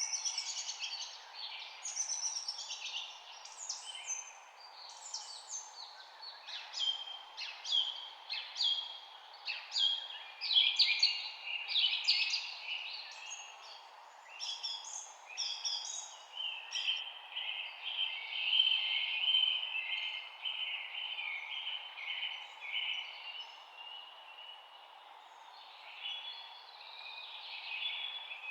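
Several songbirds chirping and trilling, with overlapping quick high calls, and a denser run of rapid trills from about halfway through, over a steady faint background hiss.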